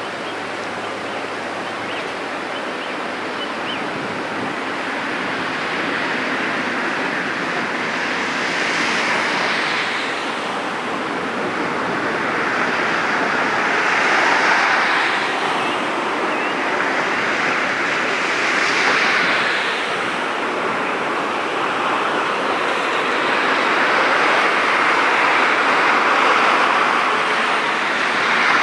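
Wind rushing over the microphone in gusts: a loud, even hiss that swells and eases about every five seconds.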